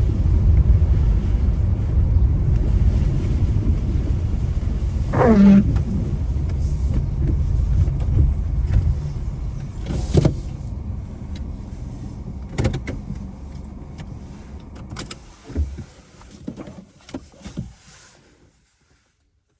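Car running on the road, its low cabin rumble fading away as it slows to a stop. There is a short falling squeak about five seconds in, then a few sharp clicks and knocks before the sound cuts off.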